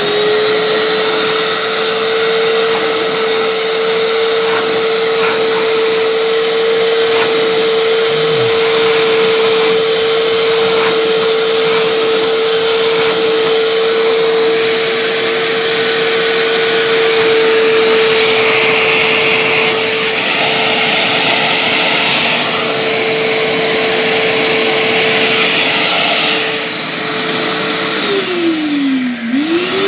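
Household vacuum cleaner motor running steadily with a high whine and rushing airflow, working again after its on/off switch contact was repaired. Near the end the whine drops sharply and then climbs back up to speed.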